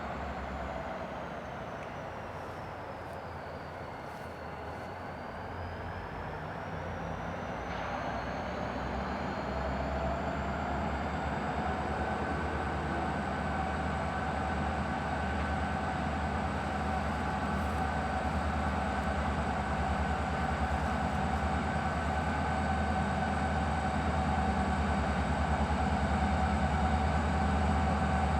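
A pair of CSX SD40-2 diesel locomotives, each with a turbocharged 16-cylinder EMD 645 engine, running under way: a steady low engine drone with a high whine that drops in pitch a few seconds in, then climbs back. The sound grows steadily louder.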